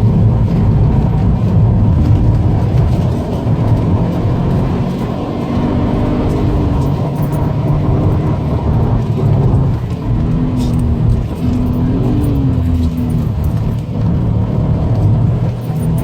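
Subaru Impreza WRX STI's turbocharged flat-four engine being driven hard on a race circuit, heard from inside the cabin, its note rising and falling with throttle and gear changes.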